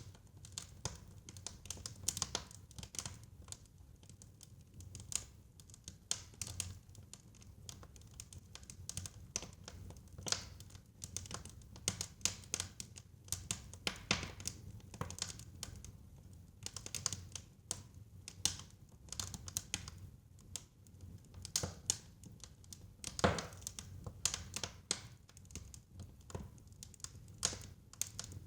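Fire in a fireplace crackling, with irregular sharp pops over a low steady rumble; one pop stands out louder, about four-fifths of the way through.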